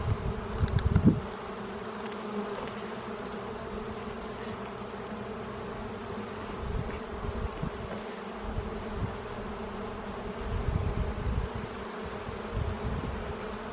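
Honey bees from an open hive buzzing in a steady hum, with short low bumps about a second in and again around ten seconds in.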